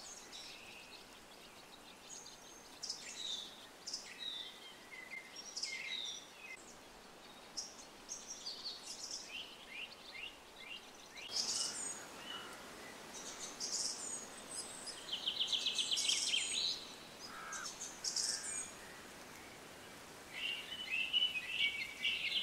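Wild birds singing and calling: many short whistles and chirps, a fast rattling trill a little past the middle, and busy chattering near the end.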